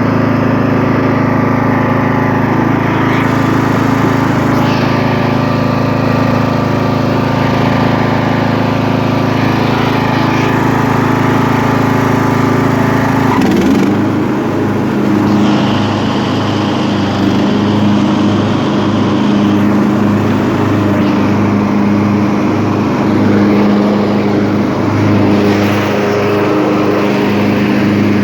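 Briggs & Stratton 500cc lawn tractor engine running steadily at a high speed. About halfway through it drops to a lower, slower running speed, with a slight regular pulse.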